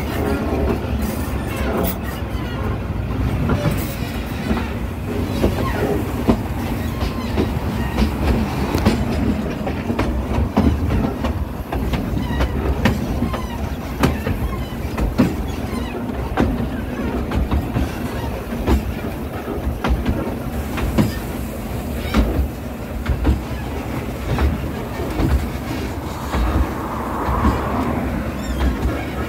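Narrow-gauge heritage railway coach running along the track, heard from an open window: a steady rumble and rattle with frequent, irregular clicks of the wheels on the rails.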